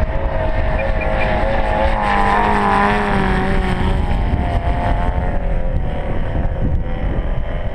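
111cc gasoline engine of a large radio-controlled Sbach aerobatic plane in flight, a steady propeller drone whose pitch wavers, then sweeps up and back down about two to four seconds in as the plane passes.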